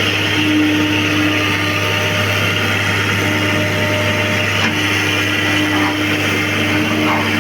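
John Deere excavator's diesel engine running steadily under work, with a constant low hum and a faint knock or two partway through.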